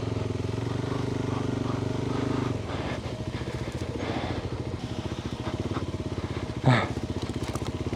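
Off-road adventure motorcycle engine running steadily, then dropping to a lower, pulsing note about two and a half seconds in as the throttle comes off. A short, loud knock comes near the end.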